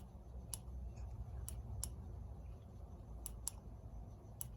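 Push-button on a small rechargeable LED bike tail light clicked repeatedly, cycling through its flashing modes: short, sharp clicks at irregular intervals, several in quick pairs.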